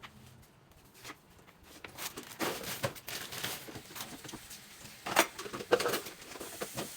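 Groceries being loaded into a fridge: packaging and plastic bags crinkling, with items knocking as they are set down, the sharpest knocks about two and a half and five seconds in.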